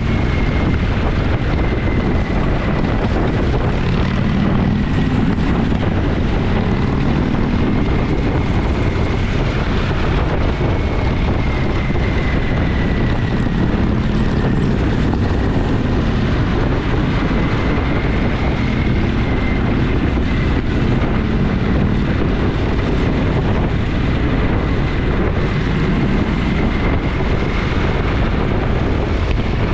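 Motorcycle engine running at a steady cruise, its low note rising and falling slightly with the throttle, over continuous road and wind noise, with a faint thin high whine riding along.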